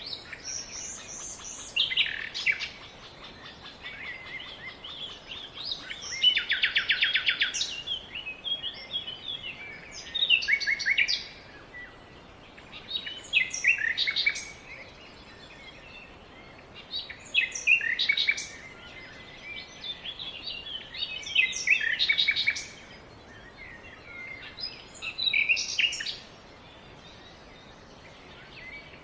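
Songbirds singing: short, quickly varying song phrases about every three to four seconds, one of them a fast trill lasting about a second, over a faint steady outdoor hiss.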